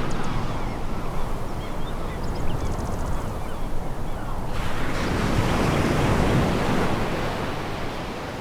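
Sea waves breaking and washing over a pebble beach in a continuous rush, with a new wave surging in about halfway through and then fading.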